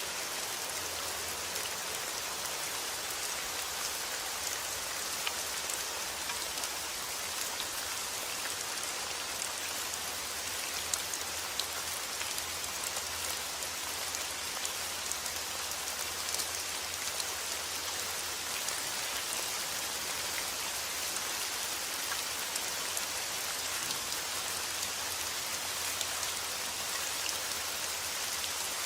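Steady, even rainfall with many small individual drops pattering on a surface.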